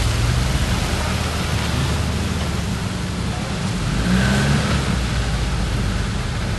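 Small Suzuki 4x4's engine running under load as it climbs a steep muddy track, over a steady hiss.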